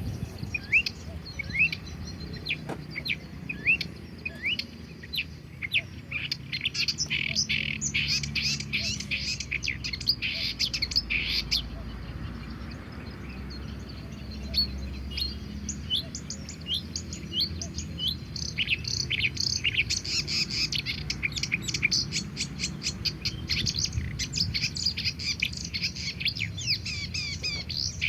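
Wild songbirds chirping and twittering in a chorus of rapid, high, short notes, with two dense bursts and a thinner stretch in the middle, over a low steady background rumble.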